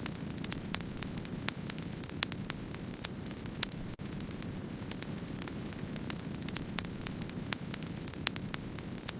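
Wood fire burning with a steady low rush and frequent irregular sharp crackles and pops, several a second. The sound drops out for an instant about four seconds in.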